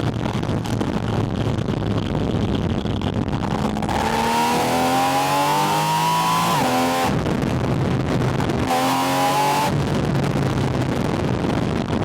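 Porsche 718 Spyder RS's naturally aspirated flat-six heard at its air intake: cruising steadily with wind noise, then accelerating hard with loud intake roar and a rising engine note from about four seconds in. The note drops sharply at an upshift around seven seconds, climbs again briefly near nine seconds, then falls back to a steady cruise.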